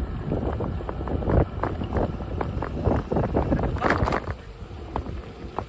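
Electric bike rattling and knocking as it jolts over a rough path, with wind buffeting the phone microphone; a burst of harder knocks about four seconds in, then quieter.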